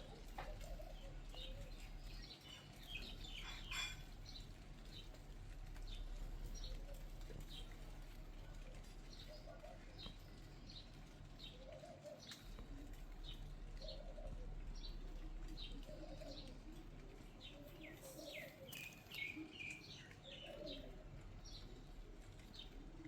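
Birds calling faintly: short high chirps repeated about once or twice a second, with lower calls every couple of seconds and a brief flurry of calls near the end. A steady low hum runs underneath.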